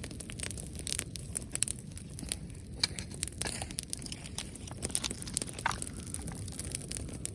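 Irregular crackling and snapping of dry vegetation, many small sharp pops at uneven intervals over a steady low noise.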